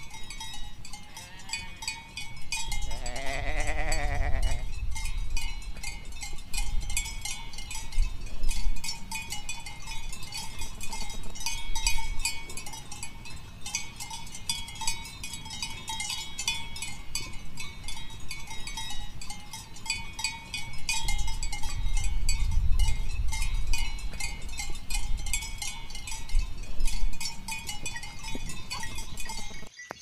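Sheep bleating, one long call about three seconds in, over a continual high clinking and ringing like small bells, with low rumble in two stretches.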